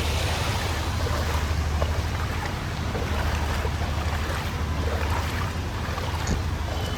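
Steady rushing of floodwater in a flooded street, with a low rumble of wind on the microphone and a few faint knocks.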